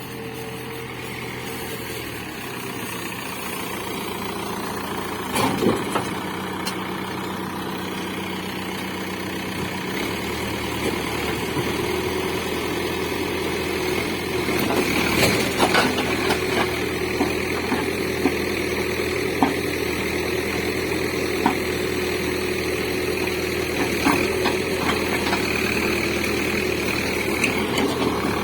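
Backhoe loader's diesel engine running under working load, its engine speed changing a couple of times and rising a little past the middle. Several sharp knocks and clanks of the machine at work stand out above the engine, the loudest about five seconds in and again around fifteen seconds.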